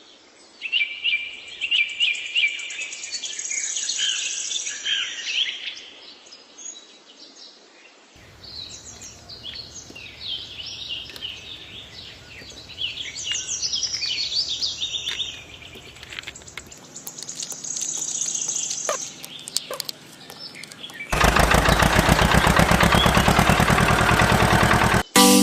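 Birds chirping and trilling for about twenty seconds, then an engine running loudly with a rapid even beat for the last few seconds.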